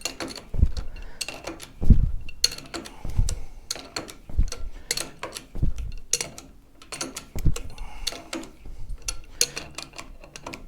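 A ratchet wrench clicking in repeated strokes with occasional knocks, as a fork cap bolt is tightened to draw the fork tube up through the steering clamps.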